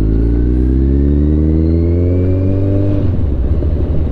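Motorcycle engine accelerating: its pitch climbs steadily for about three seconds, then the engine eases off.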